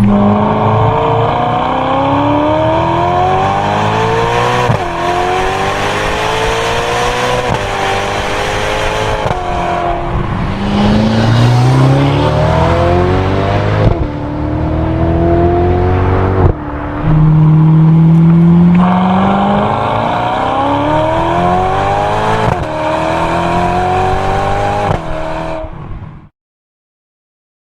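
Ferrari California T's twin-turbo V8 through a Fabspeed Maxflo exhaust, accelerating hard again and again. The pitch climbs steadily and drops back at each upshift, every few seconds. The sound cuts off near the end.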